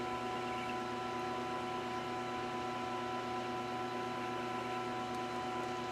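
Metal lathe running steadily: a constant machine hum with several steady whining tones over a noise floor.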